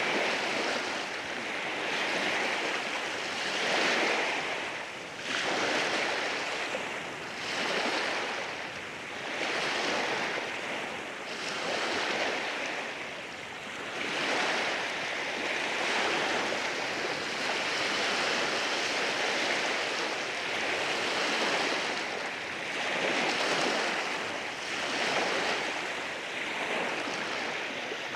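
Waves breaking and washing over rocks on a beach, a continuous rushing surf that swells and eases every couple of seconds.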